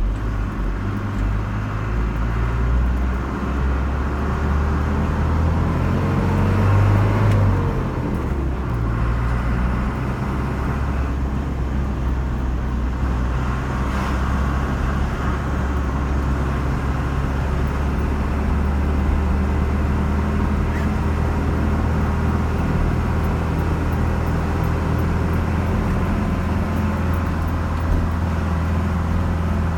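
Car driving on a road: a steady low rumble of engine and tyre noise, with a short rising-then-falling whine about seven seconds in.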